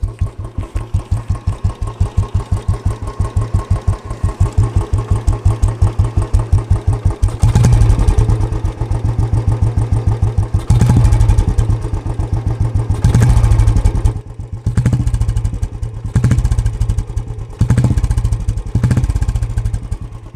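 Single-cylinder Royal Enfield Bullet exhaust idling with a slow, even thump, then revved in short blips about seven times. The exhaust runs through a de-meshed stock bend pipe and a three-filter K Indori silencer, with the idle set low to imitate the old cast-iron-engine Bullet beat.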